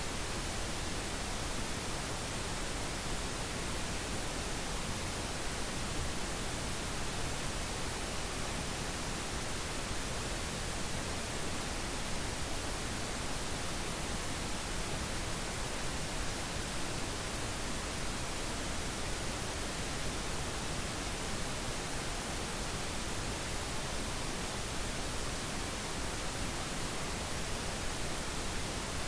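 Steady synthetic pink noise: an even, unchanging hiss spread across all pitches, with no events or variation.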